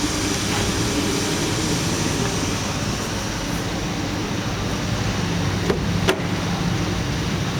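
BMW 320si's four-cylinder petrol engine running steadily from cold, an engine with a fault that needs attention. Two sharp clicks come about six seconds in.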